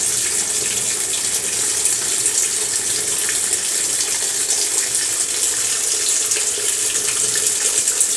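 Water running steadily into an Electrolux automatic washing machine as it fills before the wash cycle.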